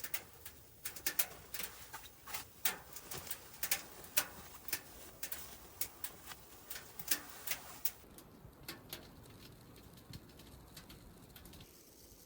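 Irregular sharp clicks and crackles, several a second, thinning out and growing fainter about eight seconds in.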